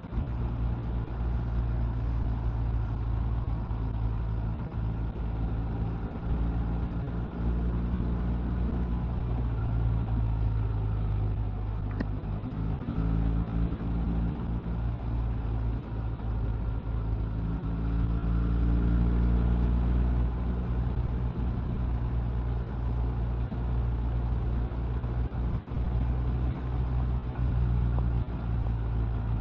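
Motorcycle engine running under way, with wind and road rumble. The engine's pitch rises and falls a few times partway through as the throttle changes.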